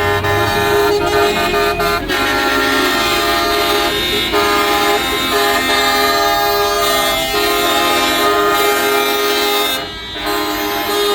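Truck air horns sounding in long, overlapping blasts, several tones at once, each held a second or more, with brief breaks between them.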